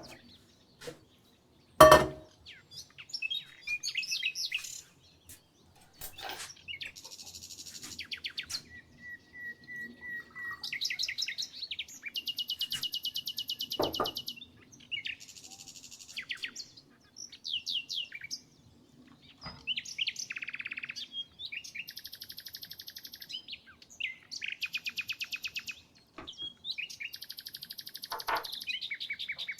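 Songbirds singing, one short trilled or buzzy phrase after another with brief gaps. A sharp knock about two seconds in is the loudest sound, and a softer knock comes about halfway through.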